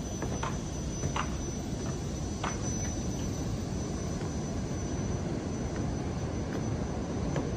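Steady low roar of Indian Ocean surf, with a few faint short clicks in the first few seconds.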